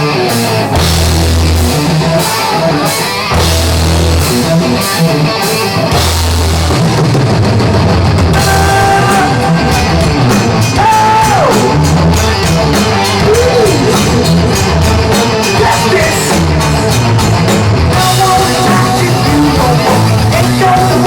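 Heavy rock band playing live: long held bass notes open, then the drums and electric guitars come in fuller about six seconds in, with a lead guitar bending a note near the middle.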